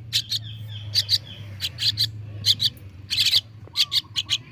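Javan myna chick giving short, harsh begging calls, a few a second, as it is hand-fed softened pellet food. A steady low hum lies underneath.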